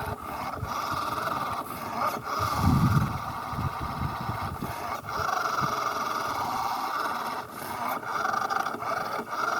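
Toy-grade RC car's small electric motor and gearbox whining steadily at full throttle while its wheels spin and dig in sand without getting traction. A louder low rumble comes through about two and a half to three and a half seconds in.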